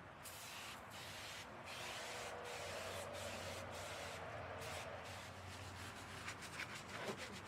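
Steady spraying hiss, its sharp top end dropping out briefly about once a second.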